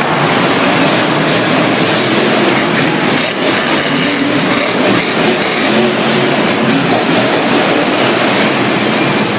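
Monster truck's supercharged V8 engine running loud and steady, with a deep, even rumble and no clear revving.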